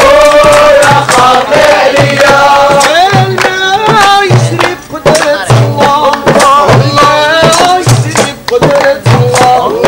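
Voices singing together in a chant-like song over a steady percussion beat.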